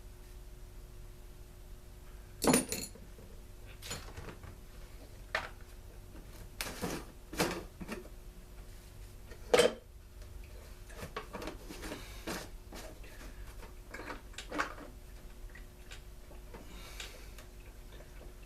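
Scattered knocks and clinks of parts and tools being handled and set down on a workbench, about nine in all, the two loudest one early on and one about halfway through, over a faint steady hum.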